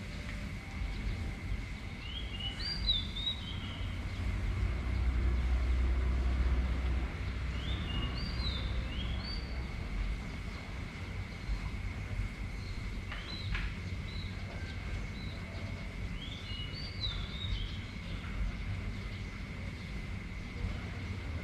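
A bird calling a short phrase of rapid chirps, four times about every five seconds. Under it runs a steady high thin whine and a low wind rumble that swells about five seconds in.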